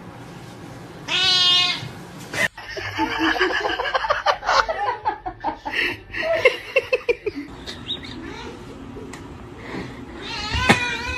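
Cat meowing: one drawn-out meow near the start and another near the end, with a busier stretch of short pitched cries and voices in between after a sudden cut.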